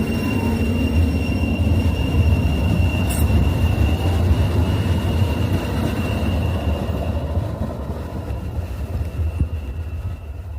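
Sacramento Regional Transit light rail train moving off after departing a stop: a steady low rumble of the running train with a thin high wheel squeal that fades out about two-thirds of the way through. A single sharp click about three seconds in, and the rumble eases off near the end.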